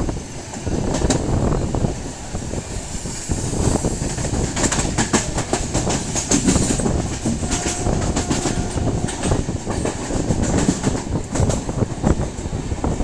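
Train running along the track: a steady rumble with the wheels clattering over the rail joints.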